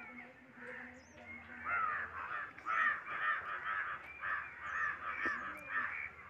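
Birds calling over and over in harsh, rapid calls, about three a second, starting about two seconds in.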